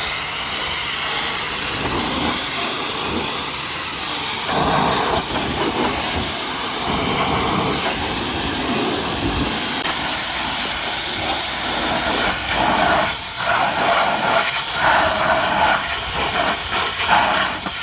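High-pressure washer spray hissing against a truck's bodywork, swelling and changing as the jet sweeps across the panels.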